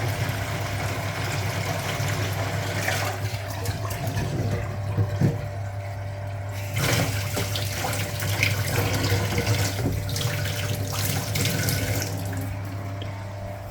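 Hoover Automatic 820 washing machine draining: the drain pump running with a steady hum while water rushes out, near the end of the drain.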